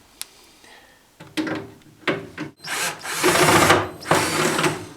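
Cordless drill-driver running in short bursts, backing out the screws that hold a fridge's top panel. The longest, loudest run comes about three seconds in, with a shorter one after it.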